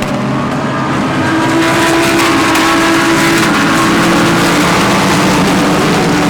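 GT3 race cars' engines running past at speed, several cars at once with their engine notes overlapping and shifting in pitch.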